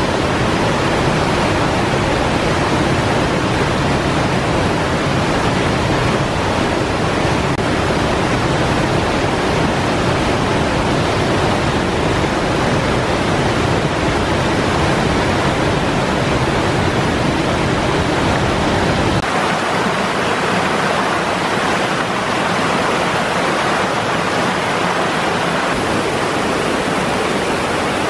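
Waterfall pouring: a loud, steady rush of falling water. About two-thirds of the way through, the deep low rumble drops away and a brighter hiss remains.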